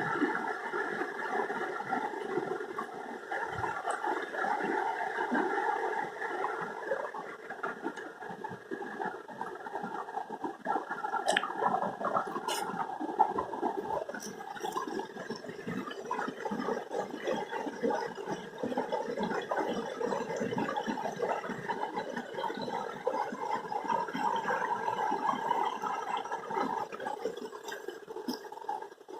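Water running and gurgling steadily.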